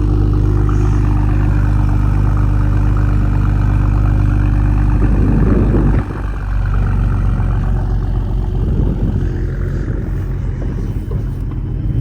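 A car engine running loudly through its exhaust with a steady deep drone. It swells about five seconds in, then drops suddenly and carries on at a lower, rougher note.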